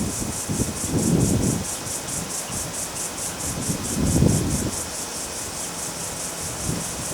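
Insects chirping in a fast, even pulse, about four chirps a second, with gusts of wind buffeting the microphone now and then.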